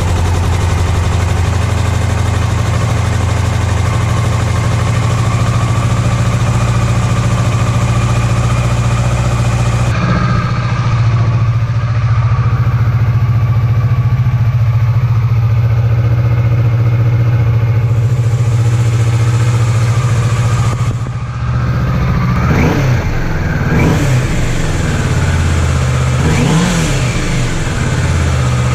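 Kawasaki Vulcan S's 649 cc parallel-twin engine idling steadily through its standard exhaust, then revved a few times near the end.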